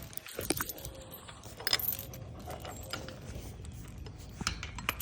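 Metal clinking and rattling as a gate fastening is worked by hand, a few separate clinks among softer rattles.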